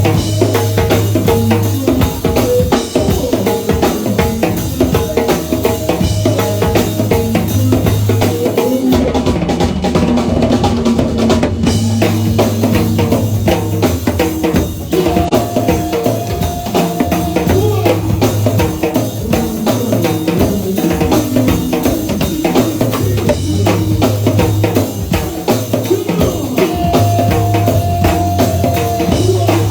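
A live band playing an instrumental passage: drum kit with bass drum and snare keeping a steady beat under held bass notes and sustained melody notes.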